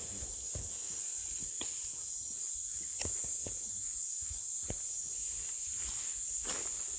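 Night insect chorus of crickets and katydids, a steady, high-pitched shrilling drone, with a few scattered light knocks and rustles.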